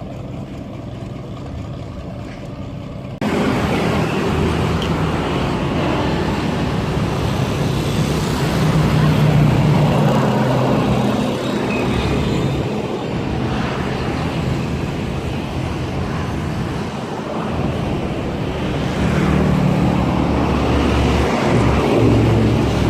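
Steady engine drone under a rushing noise; the sound jumps abruptly louder about three seconds in, where the recording cuts.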